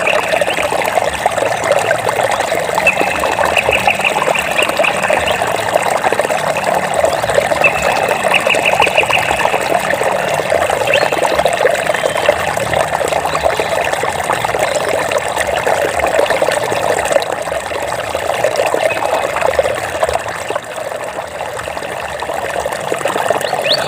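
Water trickling and splashing steadily, easing slightly in the later part. A short, rapid chirping trill sounds twice in the first half.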